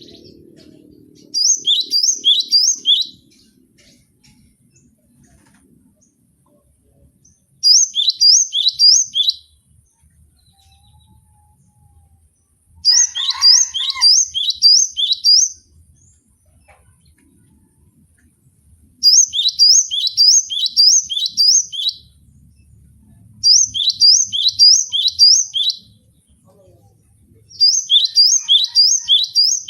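Cinereous tit (gelatik batu) singing: six short phrases a few seconds apart, each a quick run of four to six repeated high notes that each drop in pitch.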